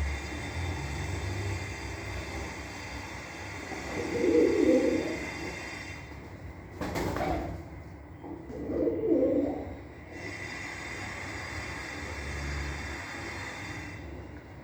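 Domestic pigeons cooing: low coos about four seconds in and again about nine seconds in, with a short sharp noise between them, over a steady faint high hum.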